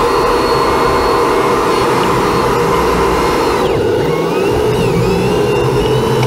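A motor running steadily and loudly, with a whine that dips and rises in pitch a few times.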